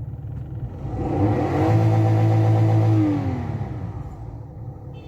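Toyota Belta's petrol engine idling, then revved once about a second in, held for a couple of seconds and let fall back to idle. It is running with the misfire on one cylinder, caused by reversed ignition coil wiring, just corrected.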